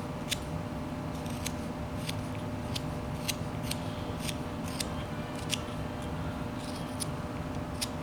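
Whittling knife taking small, light cuts in wood: sharp, irregularly spaced clicks, about one or two a second, over a steady low hum.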